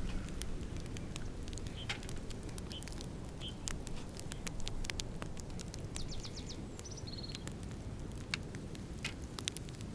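Campfire crackling: many sharp, irregular pops and snaps of burning wood over a steady low rumble, with a few short high chirps about six to seven seconds in.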